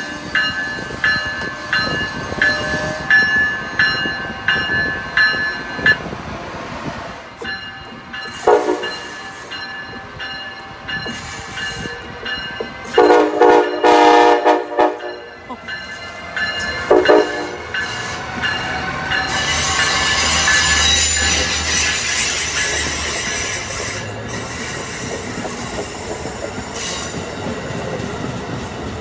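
Amtrak ACS-64 electric locomotive's bell ringing steadily at about two strokes a second. The horn then sounds a short blast, a long blast of about two seconds, which is the loudest sound, and another short blast. After that comes the rolling noise of the passenger train's wheels on the rails, with some wheel squeal.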